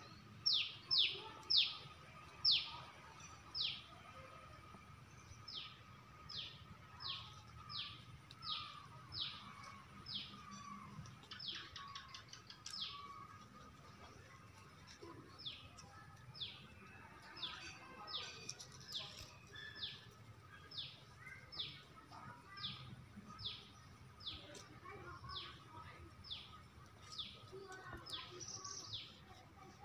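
A bird calling over and over, each call a short high note that drops quickly in pitch, about two a second. The calls come in three runs with brief pauses between them, over a faint steady hum.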